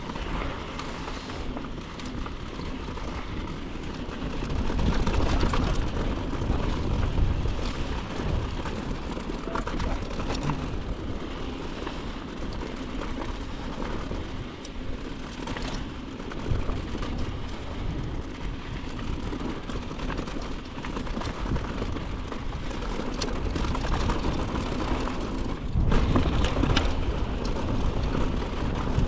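Mountain bike riding down a dirt trail, heard close up: wind rushing over the microphone and tyres running on dirt, with scattered short rattles and knocks. The wind rumble swells louder a few seconds in and again near the end.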